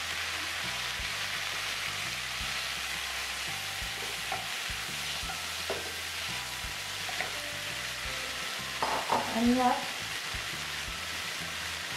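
Chopped tomatoes and onions sizzling in a hot oiled non-stick pan as a wooden spatula stirs them in, with a steady hiss and a few light knocks of the spatula against the pan.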